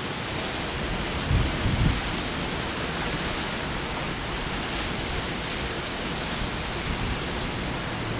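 Steady heavy typhoon rain with wind, gusting against the microphone in low buffets a little after the start.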